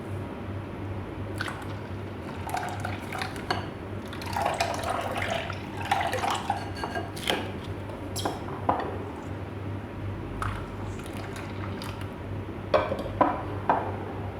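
Blended cucumber juice being poured and strained through a sieve, with irregular splashing and dripping for several seconds. Near the end come three sharp clinks of kitchenware, over a steady low hum.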